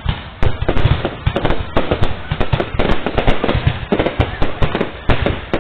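Fireworks display going off in a rapid, near-continuous string of loud bangs, several a second and overlapping.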